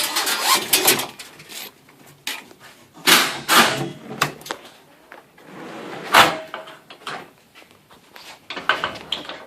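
Irregular scraping, sliding and knocking, with several sharp clicks, as parts and tools are handled during garage door replacement work.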